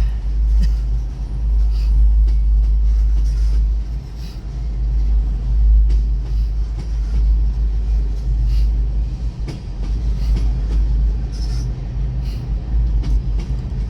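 Freight train rolling through a grade crossing: a steady, deep rumble with scattered clicks from the wheels on the rails.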